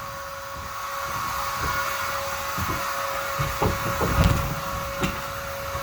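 Vacuum cleaner running steadily with a constant whine and hiss, with a few knocks and clicks about four seconds in as it bumps along.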